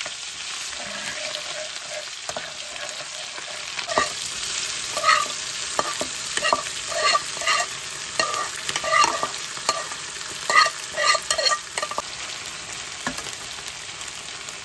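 Hot oil sizzling steadily in a metal kadai as ginger, garlic, grasshoppers and chilies fry, with a spatula scraping and clinking against the pan. The scrapes and clinks come frequent and irregular from about four seconds in.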